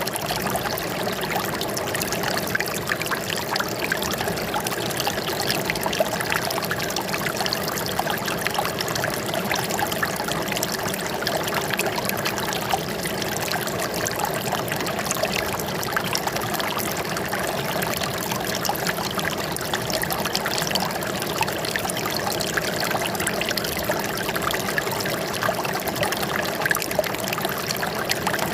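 Flowing water trickling and splashing steadily, a continuous bubbling rush with no pause or change.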